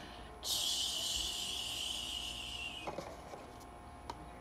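A steady high hiss, starting about half a second in and cutting off suddenly after about two and a half seconds, followed by a faint knock.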